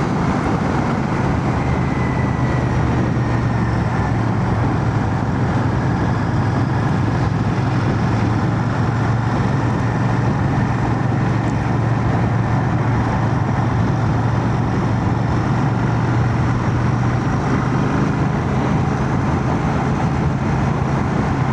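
Royal Enfield Shotgun 650's parallel-twin engine running at a steady cruise under way, with wind and road noise, heard from inside a full-face helmet. The engine note holds steady with no change in revs.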